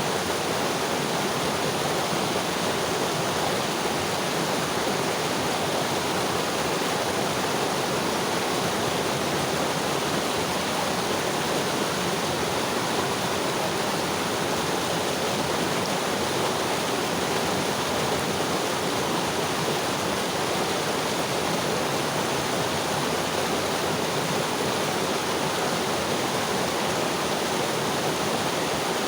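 Mountain river flowing over rocks, a steady rushing of water.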